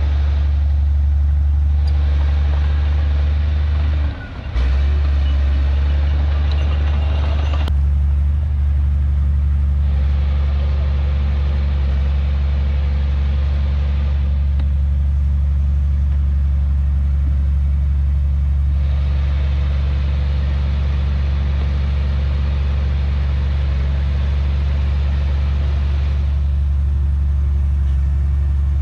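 Heavy diesel engine of earthmoving machinery running steadily under a constant low drone, with a brief drop in level about four seconds in.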